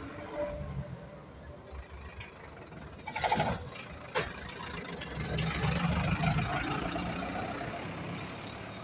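City bus engine running, with a loud short hiss of air about three seconds in and a shorter one a second later, typical of air brakes; the engine noise then swells with a faint high whine.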